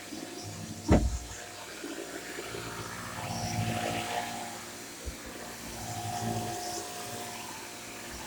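Shark corded upright vacuum cleaner running, its airflow noise swelling and easing twice with a steady hum that comes and goes. A single sharp knock about a second in.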